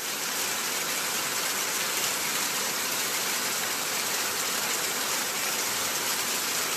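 Heavy tropical-storm rain pouring down, a dense steady hiss with no let-up.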